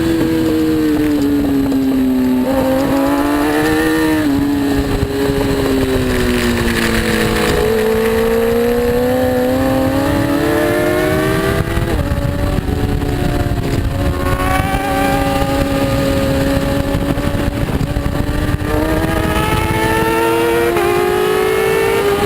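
A racing superbike engine running continuously, its pitch rising and falling with the throttle. Twice its pitch jumps suddenly, at gear changes, about halfway through and near the end. A rushing noise runs underneath.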